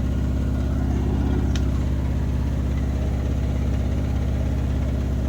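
Bosch washing machine spinning: a loud, steady low drone with a fast, even throb. It is unbalanced and making a bad noise, which the owner puts down to its stand needing adjustment.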